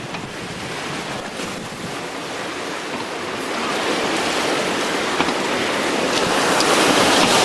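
Rushing whitewater of a Colorado River rapid, a steady wash of water that swells louder about halfway through.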